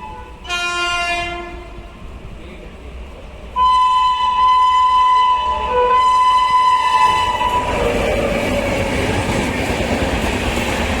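Indian express train horn: a short blast about half a second in, then a long, loud blast held for about four seconds, then the roar and wheel clatter of the train running through the station at speed.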